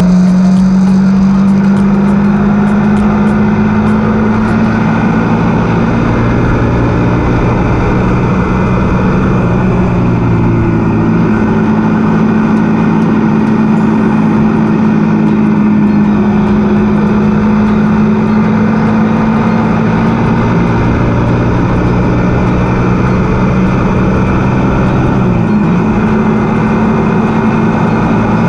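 Suzuki GSX-R150's single-cylinder engine running at steady revs while riding along at cruising speed, with a brief wobble in pitch near the end.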